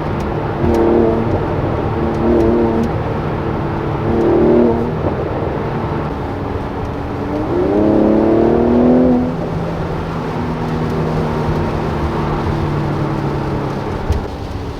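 Mercedes-AMG C43's twin-turbo V6 engine pulling under throttle in several short surges, then revving up in a rising climb about seven and a half seconds in before settling into a steadier drone.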